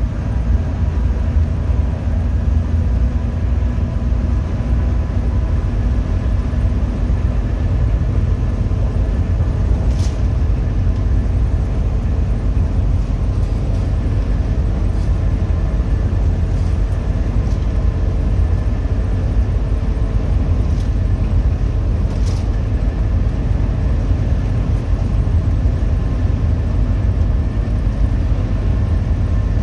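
Hino RM 280-powered coach on the move: a steady low rumble of diesel engine and road noise, with a couple of faint clicks.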